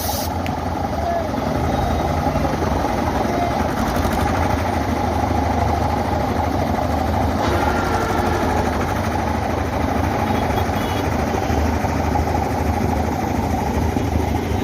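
Steady low drone of a running engine, even throughout with no revving.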